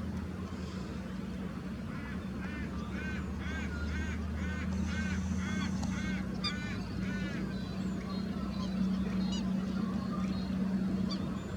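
A waterbird calling: a run of about ten short, arching calls at roughly two a second, followed by scattered faint higher chirps from other birds, over a steady low hum.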